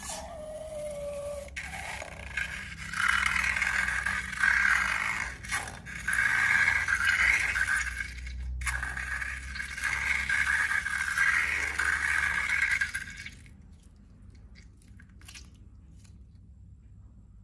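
Scraping and rubbing of slime-making materials, coming in surges for about thirteen seconds and then stopping, leaving a few faint clicks.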